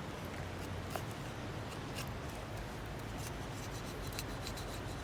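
Wood fire crackling: irregular sharp pops and ticks of burning firewood over a steady hiss.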